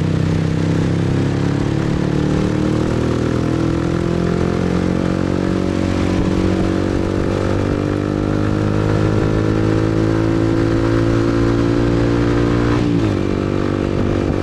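Motorbike engine accelerating, its pitch rising slowly and steadily for about ten seconds, then dropping suddenly near the end as the throttle eases or it shifts gear.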